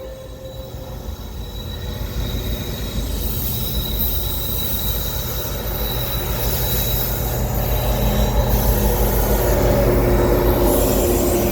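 Freight train's diesel locomotives approaching and passing, a deep rumble growing steadily louder, with a faint thin wheel squeal from the rails.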